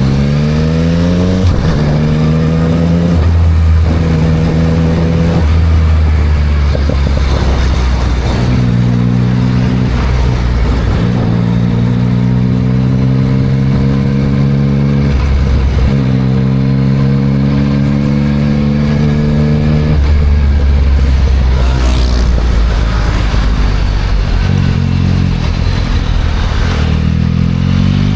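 Yamaha MT-09 SP's inline three-cylinder engine through a Spark full exhaust, heard while riding: it revs up, then holds steady at several speeds with short breaks as the throttle is eased off, and picks up again near the end, over a steady hiss of wind and road noise.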